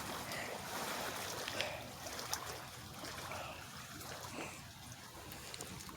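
Faint running water, a steady trickling hiss, with a few light ticks.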